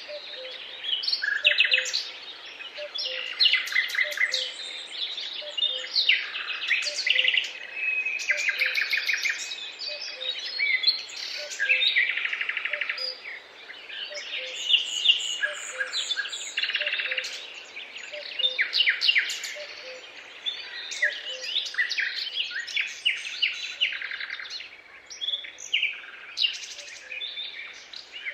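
Several songbirds singing at once: a continuous chorus of overlapping chirps, twitters and rapid trills.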